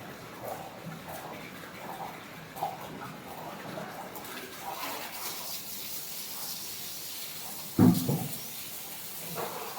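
Hand milking of a buffalo: streams of milk squirting into a pail in a steady rhythm of short spurts. One brief loud bump stands out about eight seconds in.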